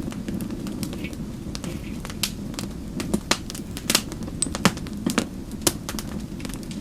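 Wood fire in a fireplace crackling: a steady low rumble of the flames with sharp, irregular pops and snaps, coming thicker in the middle of the stretch.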